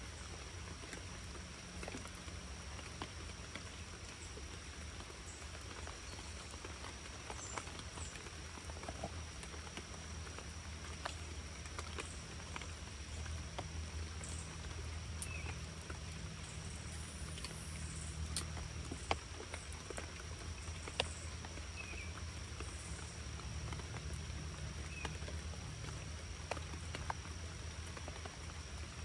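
Rain falling steadily, a fine pattering haze with scattered single drops ticking close by, a few sharper ones just past the middle, over a steady low rumble.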